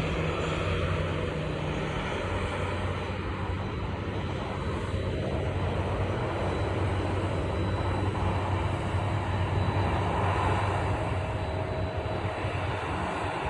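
Airliner engines running steadily as the aircraft taxis, a continuous rushing hum that swells a little about two-thirds of the way through.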